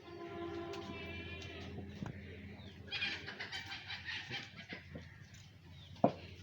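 Farmyard animal calls: a long, drawn-out call for about two seconds, then a run of quick, high-pitched clucking calls about three seconds in. A single sharp knock comes near the end.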